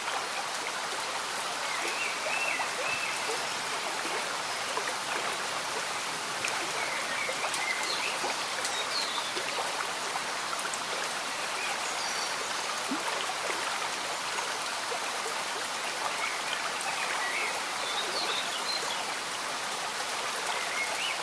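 A slow-moving stream bubbling and trickling under steady, gentle rain, at an even level throughout. Faint short bird chirps come through now and then.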